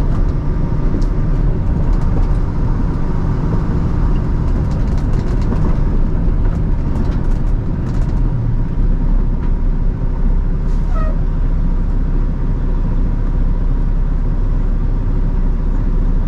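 Diesel engine of a fuel-tanker semi truck running, heard steadily from inside the cab.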